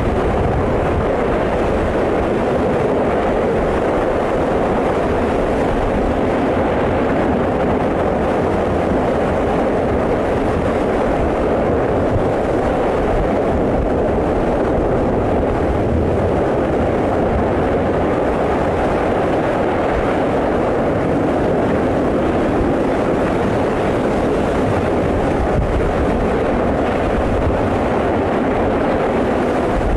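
Steady, unbroken roar of an erupting volcano's lava and venting gas.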